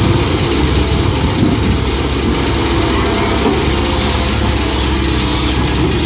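Komatsu PC130-8 hydraulic excavator's diesel engine running steadily while the machine works, with a wavering whine over the engine rumble.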